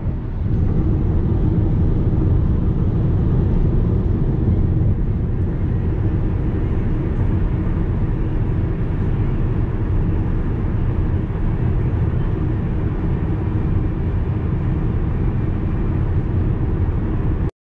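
Car driving on the road: a steady, loud drone of road and engine noise, heaviest in the low end.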